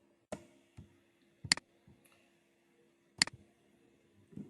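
Computer mouse clicking: three sharp clicks spread over a few seconds, with a few fainter ticks between them, over a faint steady hum.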